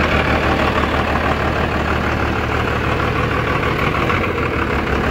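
Twin-turbo Cummins diesel engine idling steadily, fitted with a larger VP44 injection pump.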